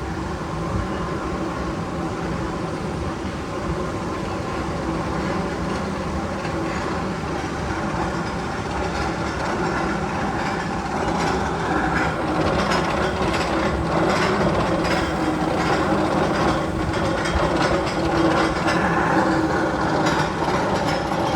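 Rumbling and rattling of rail wheels on track, getting louder about halfway through, with rapid clacking.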